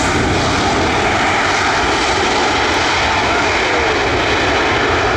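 Engines of a UPS cargo jet running loud and steady as it passes close by: a continuous rush of jet noise with a faint whine over it.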